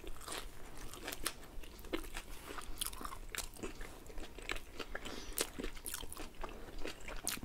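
Two people biting and chewing shawarma wraps close to the microphone: a run of irregular, sharp clicking mouth sounds with no talk.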